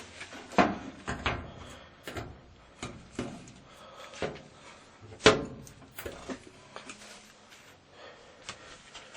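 Irregular knocks and clunks of hands working on an old washing machine's cabinet and top, about a dozen, the loudest about half a second in and just after five seconds in.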